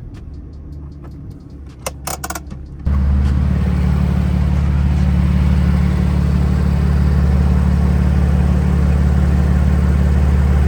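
A few sharp clicks, then about three seconds in a car engine's loud, steady low drone starts suddenly and holds.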